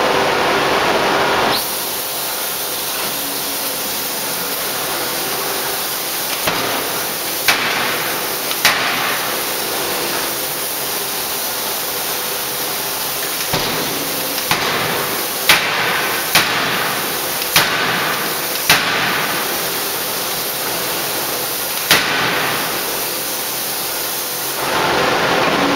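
A 3-tonne electro-hydraulic closed-die forging hammer striking, about eight sharp blows at uneven intervals over a steady hiss, several coming about a second apart in the middle.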